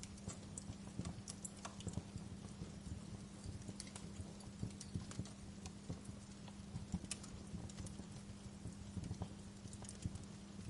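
Wood fire crackling, with irregular sharp snaps and pops several times a second over a soft hiss and a steady low hum.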